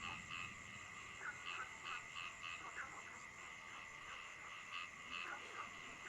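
Frogs croaking at night, many short calls overlapping in an irregular chorus, over a steady high drone and a faint hiss of rain.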